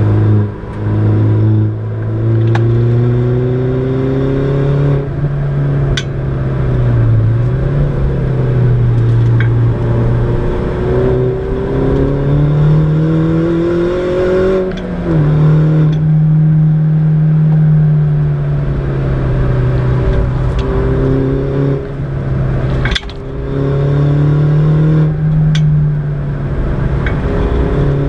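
Mini John Cooper Works R56's turbocharged 1.6-litre four-cylinder engine pulling hard under load, heard from inside the cabin. Its pitch climbs and drops with the gear changes, and a few sharp cracks sound near the shifts.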